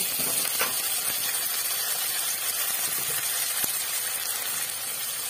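Chopped cauliflower sizzling in hot oil in a kadhai, a steady frying hiss, with two faint ticks.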